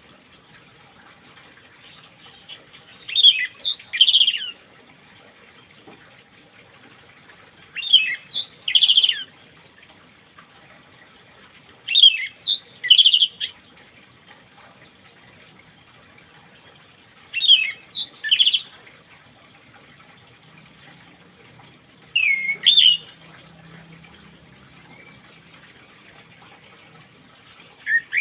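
Orange-headed thrush singing short whistled phrases of sliding notes, one phrase every four to five seconds, six in all. A faint steady hiss like running water lies under the song.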